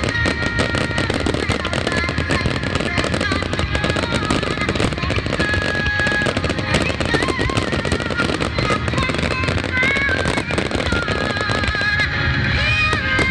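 Fireworks bursting and crackling densely and without pause, with music playing over them.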